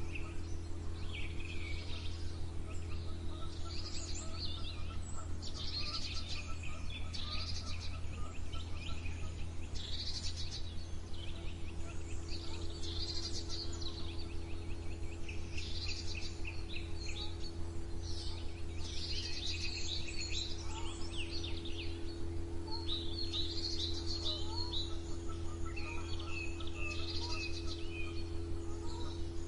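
Several songbirds singing and chirping in short, overlapping phrases throughout, over a steady low hum.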